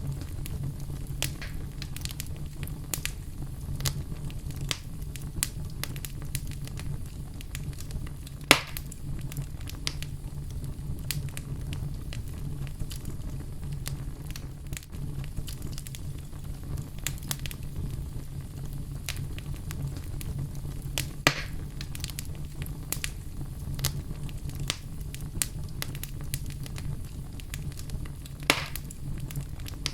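Wood fire burning in a fireplace: a steady low rumble of flames under constant small crackles, with three louder pops of the burning wood spread through.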